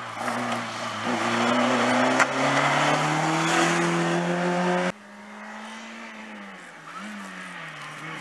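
Race-prepared car engine revving hard under acceleration, its pitch climbing steadily, until the sound cuts off sharply about five seconds in. A car engine is then heard at lower level, its pitch dropping as it slows for the cones and rising again as it picks up speed near the end.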